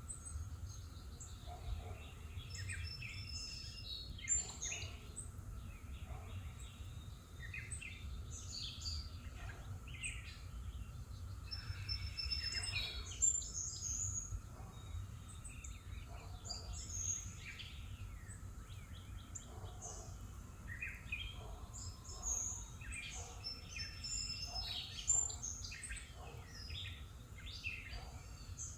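Songbirds chirping and singing in short, scattered calls over a steady low rumble of background noise, with a faint steady hum.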